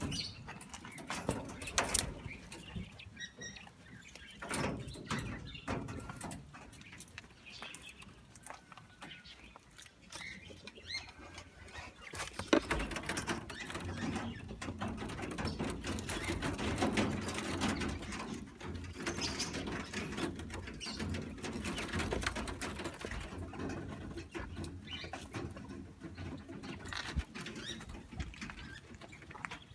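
Caged aviary birds calling and chirping, mixed with scattered clicks, knocks and rustling.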